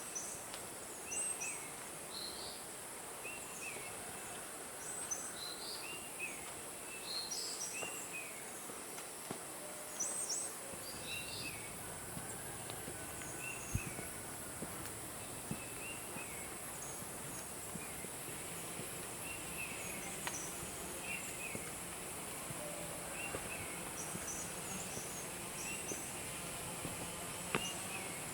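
Tropical forest ambience: many short, repeated bird chirps over a steady high-pitched hiss of insects.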